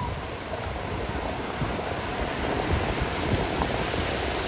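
Ocean surf washing in, with wind gusting on the microphone.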